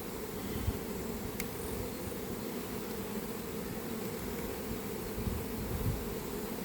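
Steady buzzing of many honeybees around an open hive.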